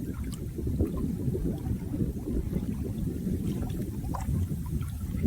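Flowing water, a steady low churning rush with small splashes and drips scattered through it.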